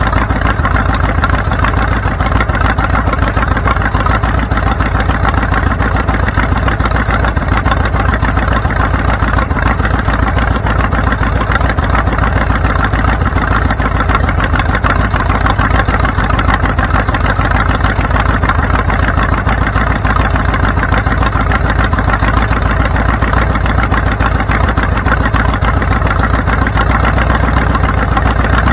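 Vehicle engine running steadily with a rapid, even pulsing, heard from on board the moving vehicle.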